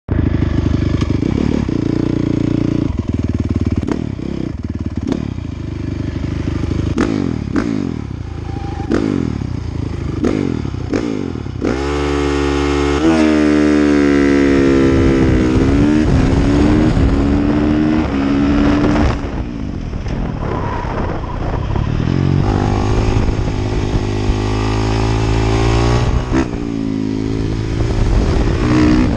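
Honda CRF450R's single-cylinder four-stroke engine being ridden hard, revs rising and falling over and over through gear changes and corners, with a long pull up and back down about twelve seconds in.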